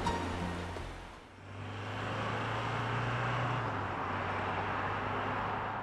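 Toyota Hilux pickup running on the road, with a steady low engine and exhaust drone under tyre and road noise. The sound dips briefly about a second in, then holds steady.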